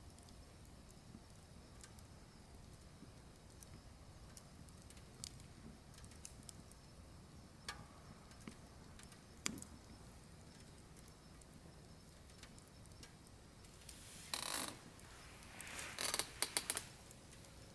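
Firewood burning in a wood stove: scattered small crackles and pops, then two louder bursts of crackling near the end.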